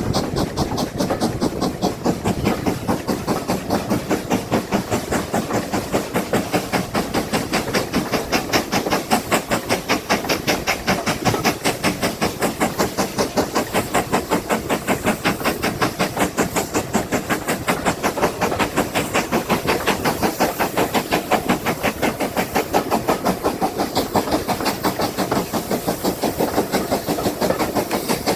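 Steam locomotive working steadily along the line, its exhaust beats coming in a rapid, even rhythm over a hiss of steam.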